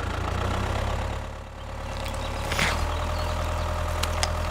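An engine-like motor running with a steady low hum. It dips in loudness about a second and a half in, and there is a brief hiss a second later.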